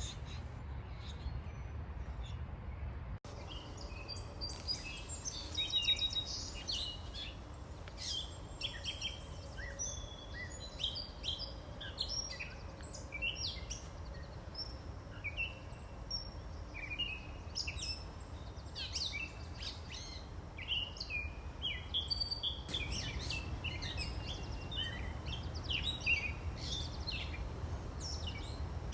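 Several songbirds chirping and singing, with a steady low rumble of highway traffic underneath.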